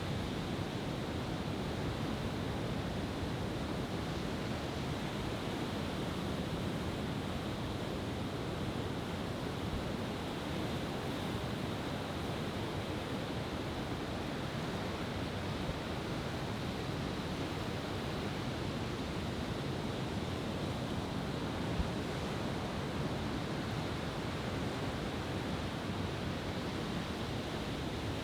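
Steady wash of ocean surf, even and unbroken, with no fireworks bursting.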